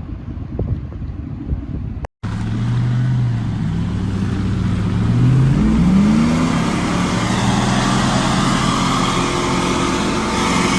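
Wind buffeting and a low rumble, then after a cut about two seconds in, a pickup truck's loud aftermarket exhaust running. Its pitch climbs as the engine revs up about halfway through, then holds steady.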